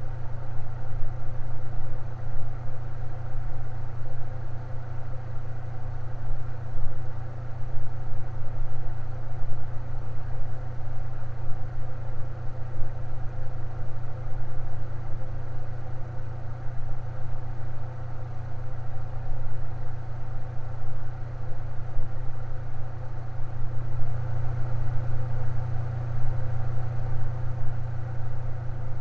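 Electric fan running steadily: a constant low hum, swelling slightly for a few seconds near the end.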